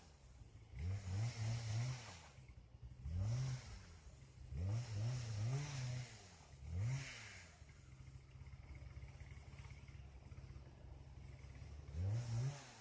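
An animal's low grunting calls, short rising-and-falling sounds in clusters of two or three, over a steady low rumble.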